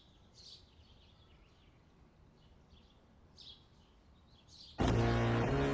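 Quiet outdoor background with a few short, high bird chirps. About four and a half seconds in, a loud music cue cuts in abruptly and keeps going.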